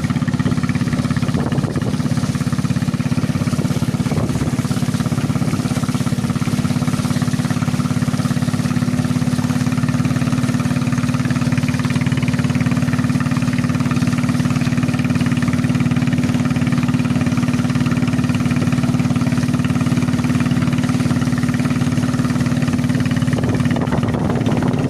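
Fishing boat's ZS Power engine running steadily, an even low engine note with no change in speed.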